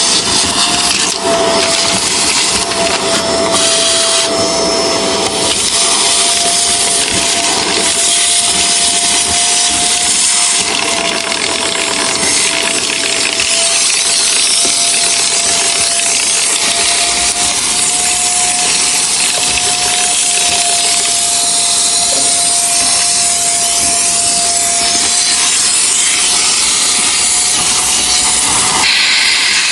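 Vacuum cleaner running steadily, sucking dust and leaves out of the inside of an air-conditioner unit, with a steady motor whine that wavers slightly in pitch.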